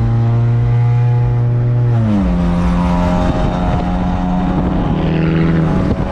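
Honda Civic coupe's engine droning at a steady speed, its pitch dropping about two seconds in as the revs fall, then running on steadily at the lower pitch.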